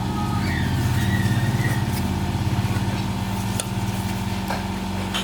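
An engine running steadily at a low idle, with a few faint chirps over it.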